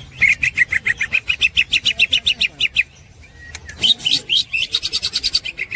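A green leafbird (cucak hijau) singing its ngekek: fast runs of repeated chattering notes, about eight a second. The song breaks off briefly about three seconds in, then resumes with higher notes.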